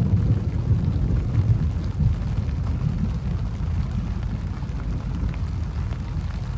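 Storm noise: a low, uneven rumble that eases a little toward the end, with faint scattered ticks of rain.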